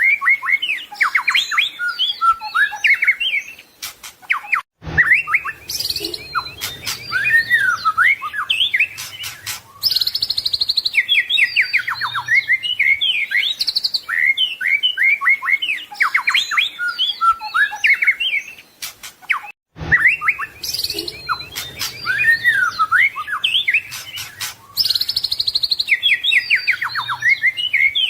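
White-rumped shama (murai batu) singing a long, fast, varied song of whistles, trills and sweeping notes full of mimicked phrases. The same passage repeats about every 15 seconds, with a brief drop-out each time it starts over.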